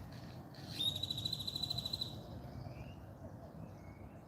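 A songbird's trill: one rapid, steady-pitched high trill lasting about a second, followed by a few faint short chirps.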